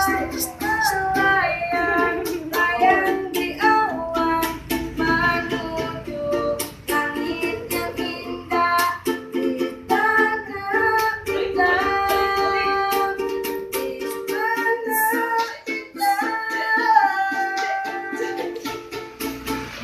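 A child busker singing a melodic song over a briskly strummed ukulele.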